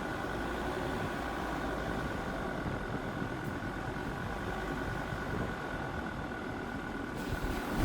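Jeep Grand Cherokee WJ's 2.7 CRD five-cylinder turbodiesel running steadily, a low rumble with a constant high whine over it. Near the end a rushing hiss rises over the engine.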